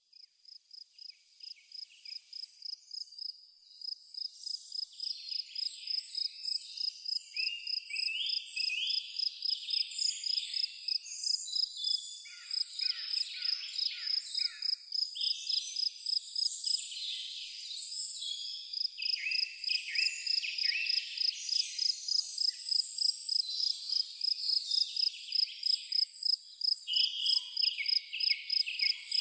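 Forest ambience: a cricket chirping in a steady, even rhythm of a few pulses a second, with birds chirping and trilling over it. The sound fades in over the first several seconds.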